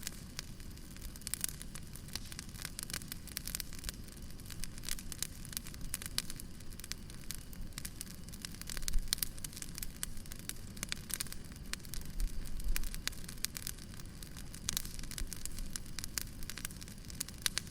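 Burning firewood crackling, with irregular sharp pops and snaps over a low, steady rumble of the fire.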